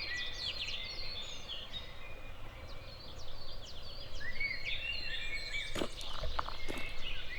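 Several songbirds singing at once, quick high chirps and trills overlapping. Footsteps on a path start about six seconds in.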